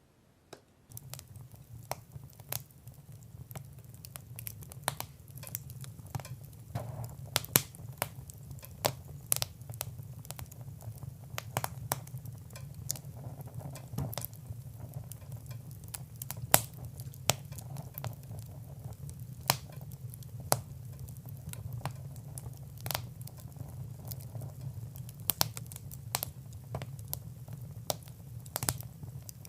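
Fire crackling in a fireplace: irregular sharp pops and snaps of varying loudness over a low steady rumble, starting about a second in.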